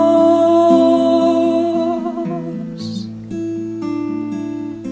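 A long sung note, held and wavering near the end, fades over about the first half, above a guitar playing a repeating picked arpeggio. The guitar then carries on alone.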